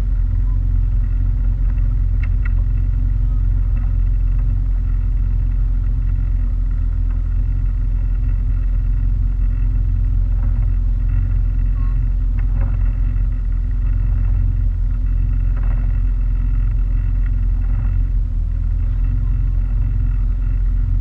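Boat engine running at a steady speed, a loud, even low drone that holds one pitch throughout.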